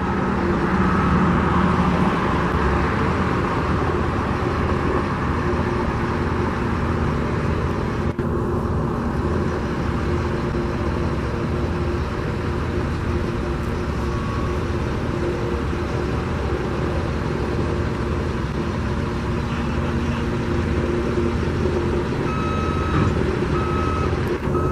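Steady rumble of heavy trucks and machinery running, with a reversing alarm beeping at an even pace near the end.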